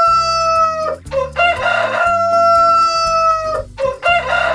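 Rooster crowing, a long cock-a-doodle-doo called again and again. One crow ends about a second in, a full crow follows, and the next begins near the end.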